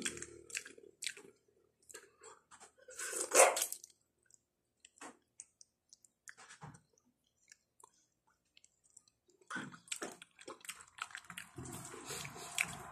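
Close-up eating sounds: chewing, lip smacks and small clicks as rice and jackfruit salad are eaten by hand and fork, with one louder short burst about three seconds in. A low rumble sets in near the end.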